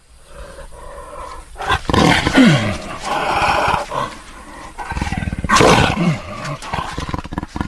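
A large animal calling twice, about three seconds apart: two loud, rough calls, each sliding down in pitch, with a low rumble between them.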